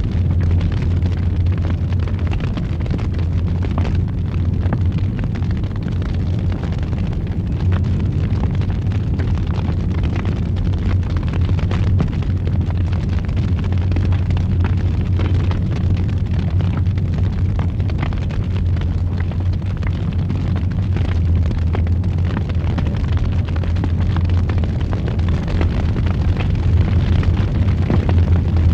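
Wood fire burning in a fireplace: a steady low rumble with frequent small crackles and pops throughout.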